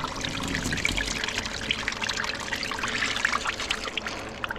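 Old oil pouring steadily from an open drain hole into a drain pan, a continuous splashing trickle.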